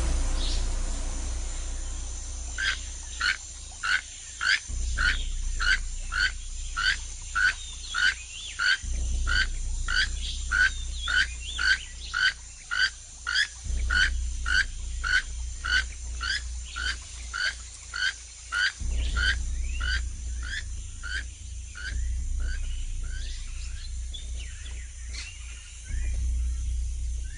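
An animal calling in a long, even series of short, sharp notes, about two a second, fading out near the end, over a low steady rumble.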